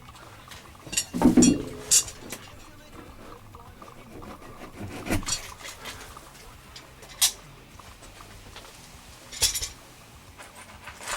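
Irregular clicks, clinks and knocks of hands handling wire closet shelving and its metal mounting hardware, with a heavier clunk about a second in.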